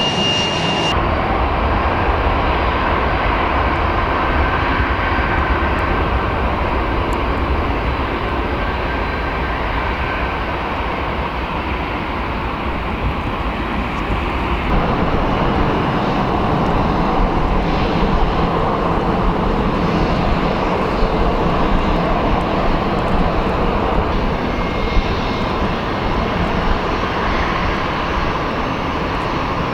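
Jet airliner engines running steadily and loudly: a Boeing 737-300 on its wet take-off, then, after a change about fifteen seconds in, a Boeing 717 taxiing.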